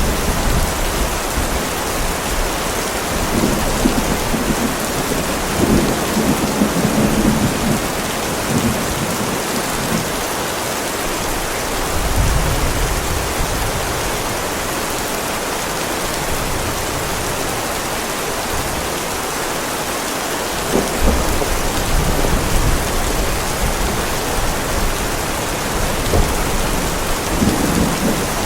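Heavy rain pouring steadily onto a driveway, a dense, even hiss, with low thunder rumbling in several swells: a few seconds in, near the middle and again toward the end.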